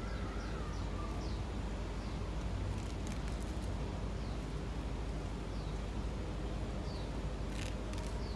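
Birds chirping faintly, short high notes sliding downward about once a second, over a steady low rumble of outdoor background noise, with a few brief clicks about three seconds in and near the end.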